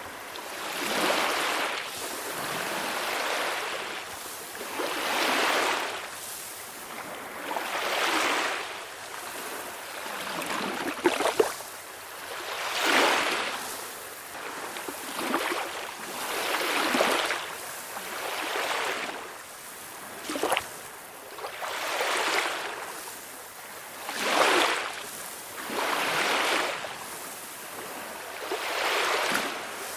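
Calm sea: small waves breaking and washing in, one wash about every two seconds, with a couple of sharper splashes.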